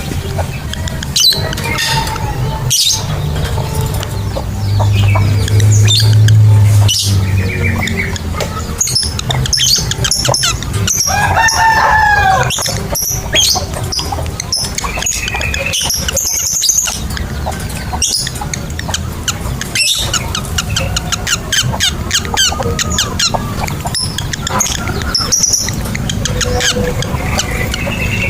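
Lovebirds chirping and chattering in rapid high calls with short rising and falling whistles, over a low rumble that swells to its loudest about five to seven seconds in.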